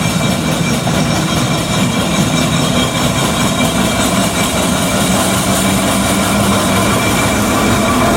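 Steam traction engine running steadily, a loud continuous mechanical sound with several held tones over it.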